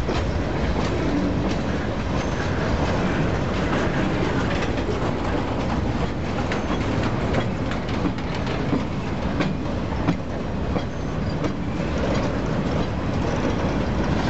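Freight train boxcars rolling past close by: a steady rumble of steel wheels on rail, with irregular clicks and clunks as the wheels cross rail joints.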